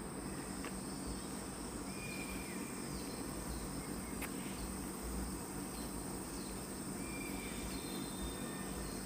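Forest ambience: a steady high-pitched insect drone from crickets or cicadas, with a few short whistled calls and a couple of faint clicks.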